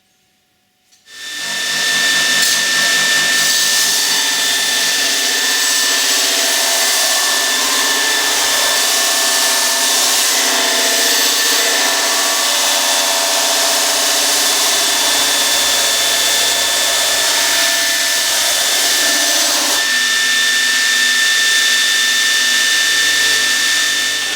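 Electric grinder switched on about a second in and running steadily, with a high whine and hiss as it grinds steel.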